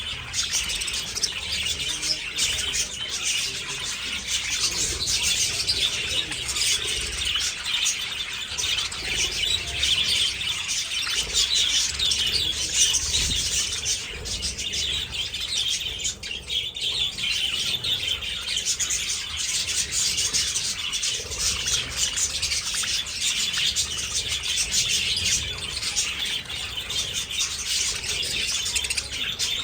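A colony of budgerigars chattering and chirping all at once, a dense continuous twitter of many birds.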